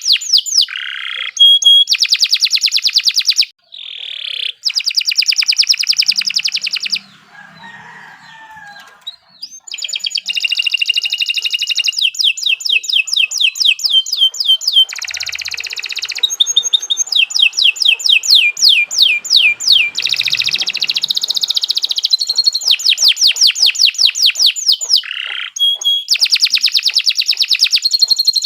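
Canary singing long, fast trills: runs of rapid repeated notes, many sweeping downward, broken by short pauses, with a quieter stretch of a few seconds about a quarter of the way in.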